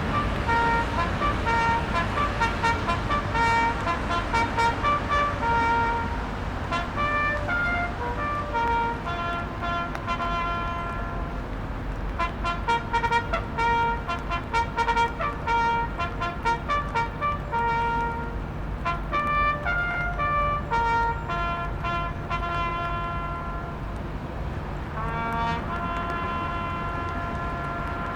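A solo wind instrument playing a slow tune, a single line of held notes with a quicker run of short notes in the middle. Near the end one note swoops up into a long held note.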